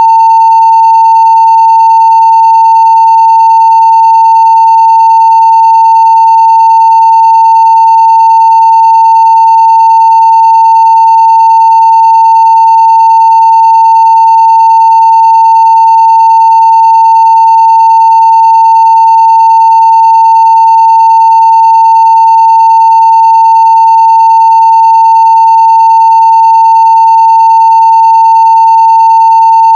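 Steady 900 Hz sine-wave test tone at full scale (0 dB), one unbroken pitch with no change in level, carrying very faint higher overtones.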